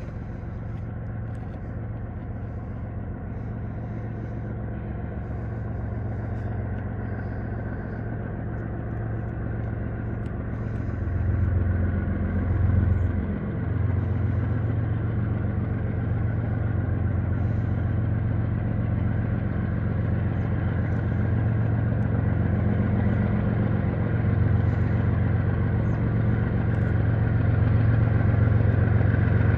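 GE diesel freight locomotives working under load as they slowly pull a train out of a siding, a steady low engine drone that grows louder as they approach, with a brief swell about twelve seconds in.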